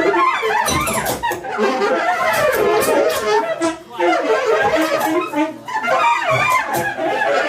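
Improvised music for saxophones and live electronics: many short, overlapping pitched fragments that break off and restart, with a brief drop in level a little before the middle.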